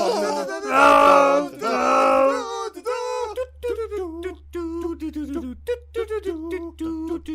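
A man's voice standing in for the film's soundtrack: loud sung notes, then a string of short choppy vocal noises, with a low steady hum coming in about three seconds in.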